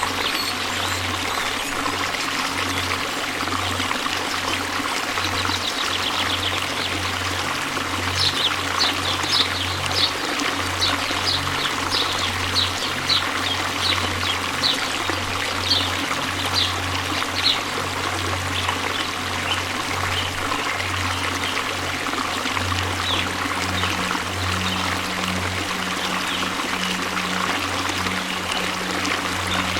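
Waterfall: a steady rush of falling water. From about 8 to 18 seconds in, a run of short high chirps comes over it, about two a second.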